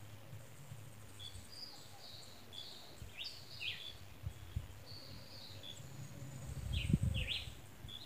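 Birds chirping in the trees: scattered short high chirps and a few quick downward-sweeping notes, over a low rumble with a soft thump about seven seconds in.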